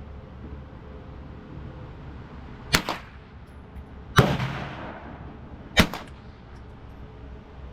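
Three gunshots about a second and a half apart, the middle one the loudest with a long echoing tail.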